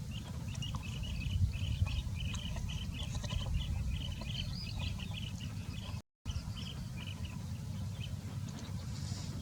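Small birds chirping rapidly, several short high chirps a second, over a steady low rumble. The sound cuts out for a moment about six seconds in, and the chirping is sparser after.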